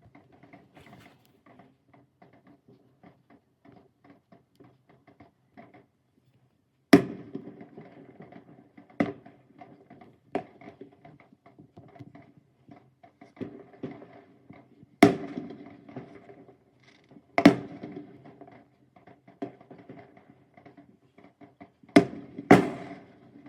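Fireworks going off: about seven sharp bangs spread unevenly, two of them in quick succession near the end, with a steady patter of small crackling pops between them.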